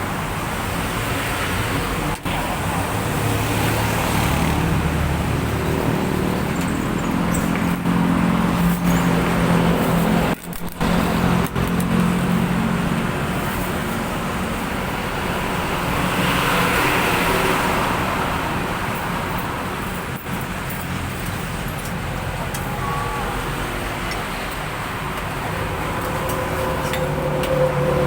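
Road traffic noise: motor vehicles running and passing, with a swell about halfway through as one goes by.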